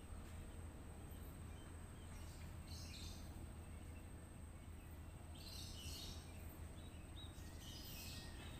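Faint outdoor ambience: a steady low hum with birds chirping in short spells about three, six and eight seconds in.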